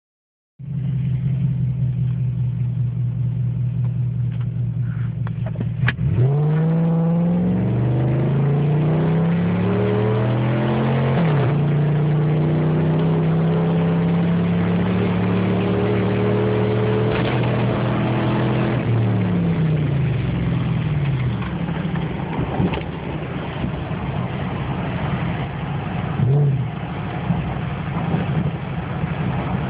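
2004 Dodge Dakota's 4.7-litre V8 running with the muffler and tailpipe removed, so the exhaust is open. It idles, then from about six seconds in it accelerates, with the pitch dropping and climbing again twice as it shifts up. It holds a steady cruise, falls back toward idle around twenty seconds in, and gives one short rev near the end.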